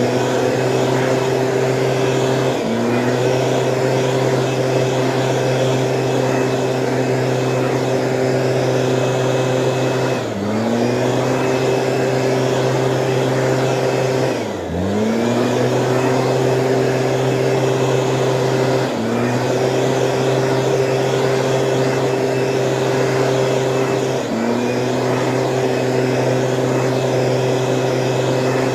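Stihl two-stroke engine of a motorised weed sprayer running at high speed, its pitch dipping briefly and climbing back every few seconds.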